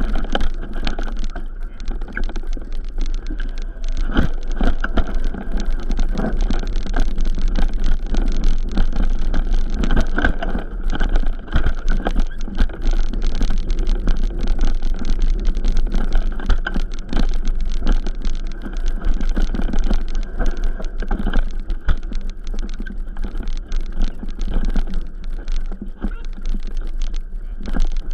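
Continuous rumble and rattling of movement along a rough forest trail, thick with small irregular knocks and clatters.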